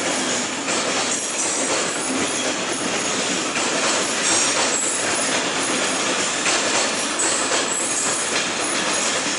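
A train rolling along the track, its wheels running steadily over the rails with light clatter and thin, high wheel squeals that come and go.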